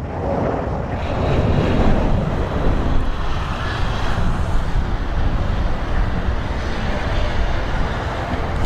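Loud aircraft noise, engines and rushing air, as an airplane passes close by, swelling over the first couple of seconds and then holding steady, with some wind on the microphone.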